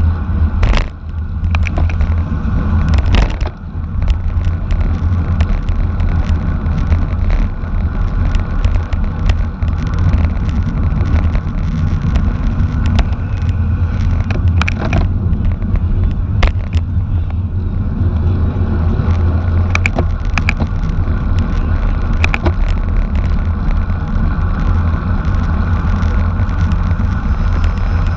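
Steady, loud low rumble of wind across the microphone, mixed with bicycle road and drivetrain noise during a race, and scattered sharp clicks.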